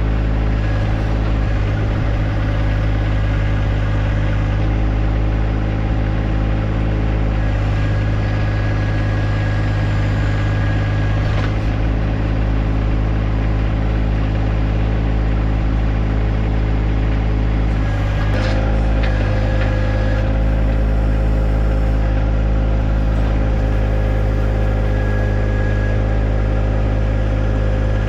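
John Deere 1025R compact tractor's three-cylinder diesel engine running steadily while the 260B backhoe digs, with a light high whine and a small shift in its tone about two-thirds of the way in.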